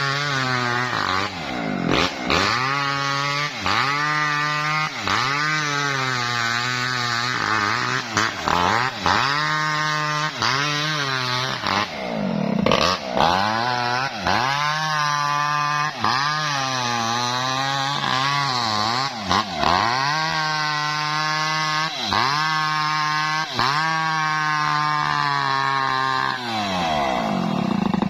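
Small chainsaw ripping lengthwise through a coconut-palm trunk. The engine's pitch dips and recovers about once a second as the chain bites and clears, then cuts off abruptly at the end.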